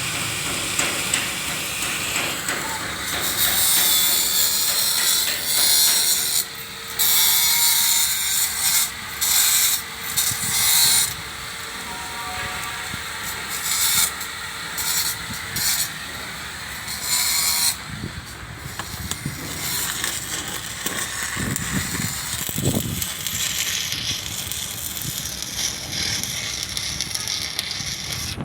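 Electric arc welding: the arc's sizzling hiss comes in bursts, starting and stopping abruptly several times in the first half.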